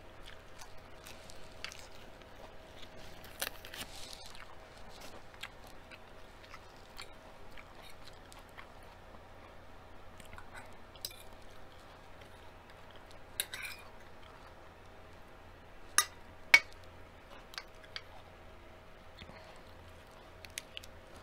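Close-up chewing and crunching of lettuce leaves, with scattered soft crackles and a few sharp clinks of a metal fork against a ceramic plate; the loudest are two clinks in quick succession about three-quarters of the way in.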